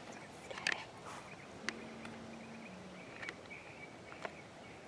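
Quiet outdoor background with faint bird chirps, a few small clicks and a brief low hum about two seconds in.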